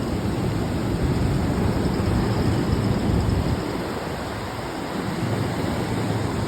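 Surf washing up the beach at high tide, mixed with wind rumbling on the microphone: a steady, dense rush with no distinct breaks.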